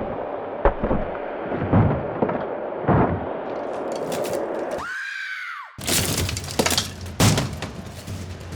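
A run of heavy thuds, then, after a brief dropout about five seconds in, a dense clatter of crashing and breaking.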